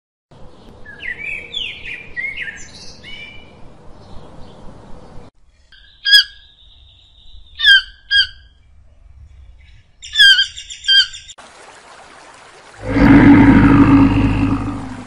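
Separate animal clips in a row. First, small birds chirp over a steady hiss for a few seconds. Then a keel-billed toucan gives five or six short calls, and finally a stream rushes, with a loud low rumble over the last two seconds.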